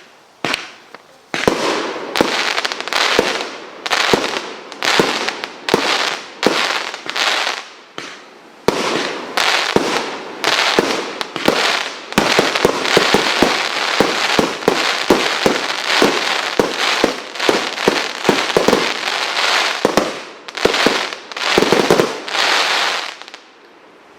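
Multi-shot firework firing a rapid run of shots. Each bang is followed by a fading burst, the shots come thickest in the middle, and the firing stops about a second before the end.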